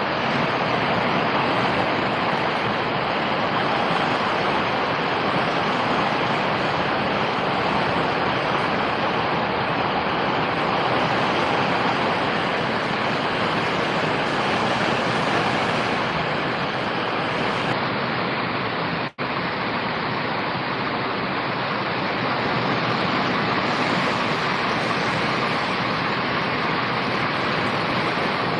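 Steady rain falling, an even hiss with no let-up, broken only by a momentary dropout about two-thirds of the way through.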